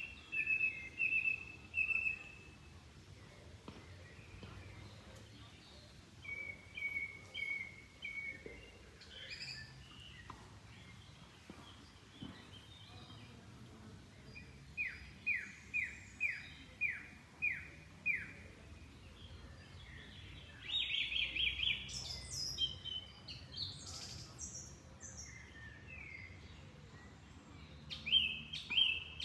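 Songbirds singing in separate phrases of repeated high notes, including a run of about seven quick falling notes in the middle and a busier burst of calls later on, over a faint steady background.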